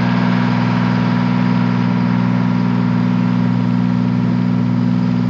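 Boat engine running steadily at a constant speed, a loud even drone heard from on board.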